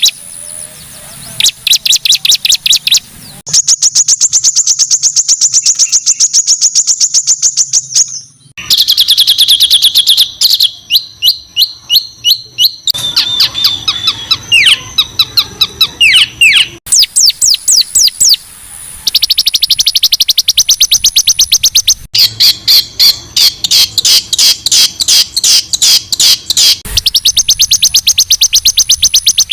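Songbird singing harsh, high-pitched 'tembakan kasar' phrases: long, fast runs of rapidly repeated sharp notes and trills, broken off suddenly about a third of the way in and again after about twenty seconds.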